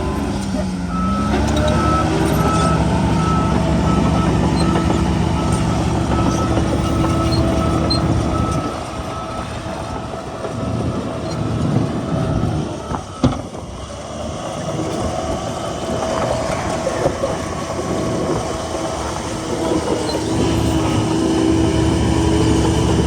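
Diesel engine of heavy earthmoving machinery working, with a reversing alarm beeping steadily over the first several seconds. The engine eases off about eight seconds in and picks up again later, with a single sharp knock about halfway through.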